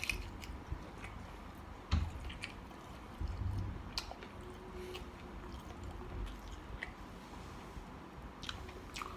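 Person chewing a mouthful of spicy mixed seafood salad close to the microphone: wet chewing and mouth clicks, with a dull thump about two seconds in and another soon after.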